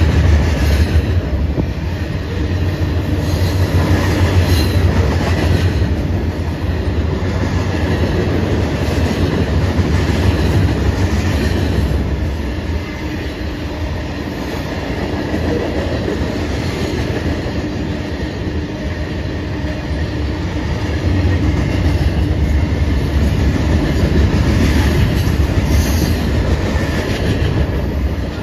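Freight cars, covered hoppers and tank cars, rolling past close by: a steady rumble of steel wheels on rail, with clicks as the wheels cross the rail joints.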